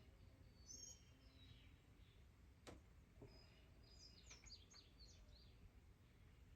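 Near silence with faint bird chirps, a short group about a second in and a longer run of quick chirps around four to five seconds in, and two light clicks near the middle.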